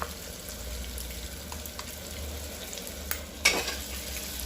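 Ground masala paste sizzling in hot oil in a pressure cooker as a spoon stirs it, with small scraping clicks. A brief, louder clatter about three and a half seconds in.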